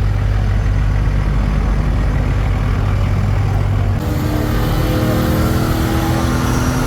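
A motor vehicle engine running steadily. About four seconds in the sound changes abruptly to an engine revving up, its pitch rising.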